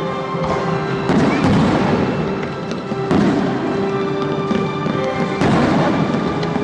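Fireworks shells bursting over music played along with the show: big bursts about a second in, about three seconds in and a little after five seconds, with smaller pops and crackles between.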